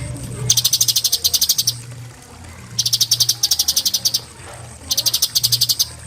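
Cucak cungkok singing its 'tembakan' song: three fast, rattling trills of about ten notes a second, each lasting a second or so, over a steady low hum.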